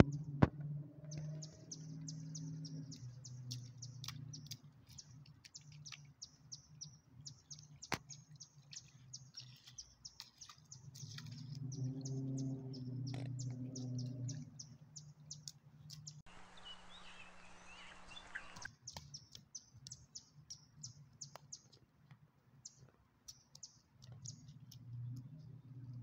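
A chorus of small birds chirping in quick, high, short chirps, over a low hum that swells and fades a few times. About two-thirds of the way through, a burst of hiss cuts in and out abruptly for a couple of seconds.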